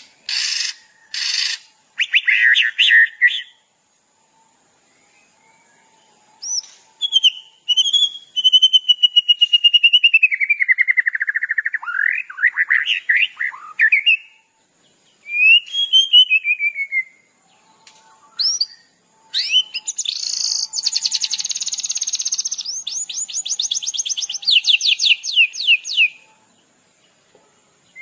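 Songbird song from a masteran recording: a few harsh repeated notes at the start, then after a pause a long whistled phrase that slides down in pitch, and near the end a fast trill lasting several seconds.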